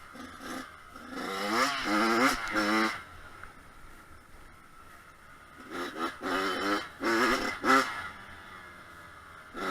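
Kawasaki KX100 two-stroke dirt bike engine revving in short bursts of throttle, its pitch climbing and dropping, then a quieter stretch before another run of revs a few seconds later.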